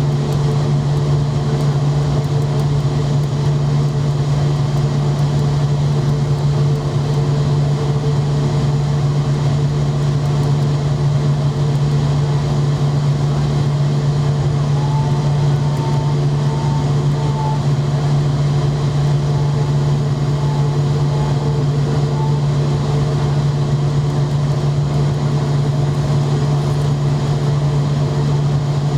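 Steady, unchanging drone of a McDonnell Douglas MD-90 airliner: a strong low hum with fainter higher tones over an even rushing noise, holding the same pitch and level throughout.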